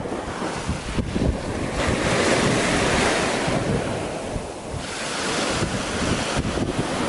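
Sea waves breaking and washing on the shore, with a strong wind buffeting the microphone. A louder wash of surf swells about two seconds in and then eases off.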